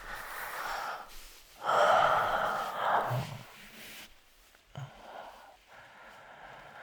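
A man's breathing close to the microphone: breathy exhales with no words, the loudest about two seconds in and fainter ones later.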